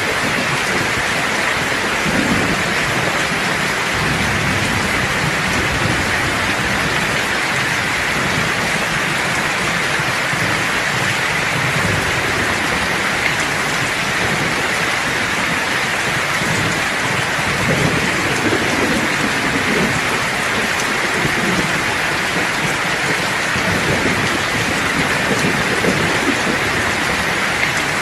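Steady heavy rain hissing, with low thunder rumbling a few times, about two seconds in, around the middle and near the end.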